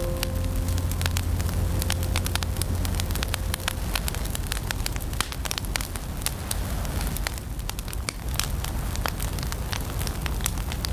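Wood fire crackling, with irregular sharp pops and snaps over a steady hiss. The tail of the background jazz fades out during the first few seconds.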